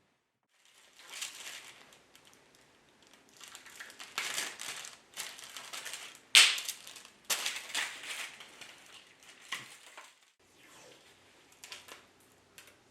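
Adhesive tape being pulled, torn and handled, in a run of short irregular noisy strokes, the sharpest about six seconds in.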